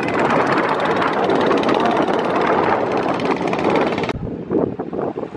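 Klotok boat engine running with a fast, steady beat. The sound breaks off abruptly about four seconds in.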